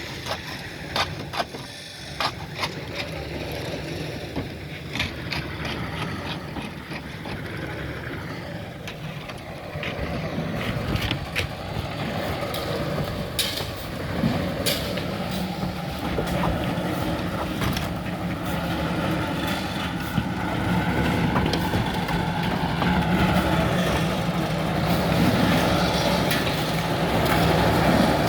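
An engine running steadily, growing louder towards the end, with scattered knocks and clatter over it, mostly in the first half.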